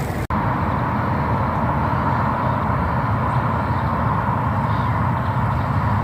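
Electric powerchair's drive motors running with a steady whine over a low rumble as the chair drives along. The sound cuts out for an instant just after the start.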